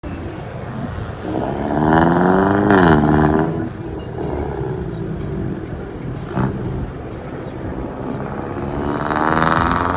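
Renault Mégane IV GT 205's turbocharged 1.6-litre four-cylinder engine and exhaust revving up twice. The first rise peaks about three seconds in and drops off sharply. A short sharp click comes about six seconds in, before the pitch climbs again near the end.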